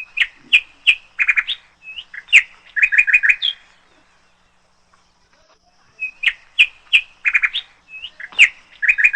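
Birdsong: a phrase of quick chirps and short whistles, about three and a half seconds long, sung twice with a pause of about two seconds between.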